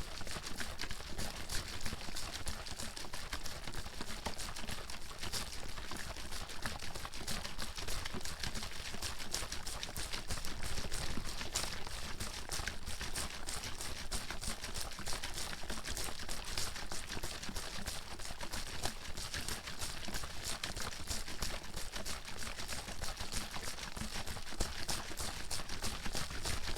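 Water sloshing and splashing in a plastic bottle shaken rapidly and continuously, a dense, even run of quick liquid slaps.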